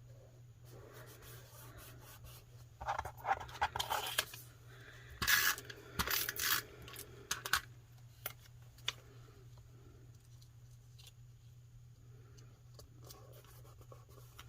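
Paper rustling and being handled, with two louder bursts of crinkling and scattered small taps and clicks, over a steady low hum.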